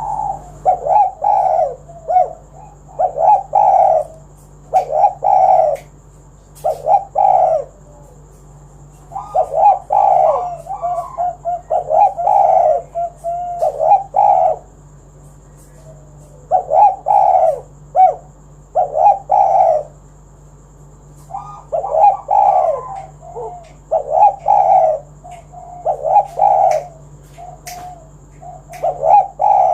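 Spotted dove cooing in repeated phrases of several low notes. The phrases come in bouts of a few seconds, separated by short pauses.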